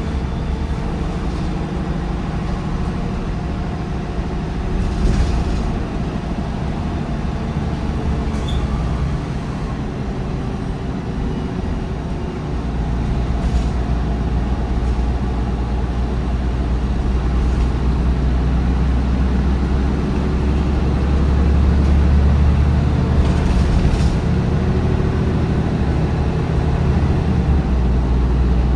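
Diesel bus under way: the MAN D1556LOH diesel engine and ZF Ecolife automatic gearbox of a MAN 19.360 running steadily. It grows louder about twelve seconds in and peaks again about twenty seconds in, with a faint high whine from just before then.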